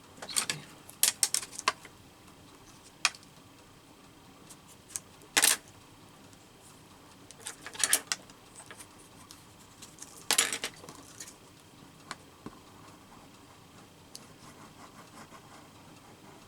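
Paper and small craft materials being handled on a work table: scattered clicks, taps and short rustles, a handful of them louder, with quiet stretches between.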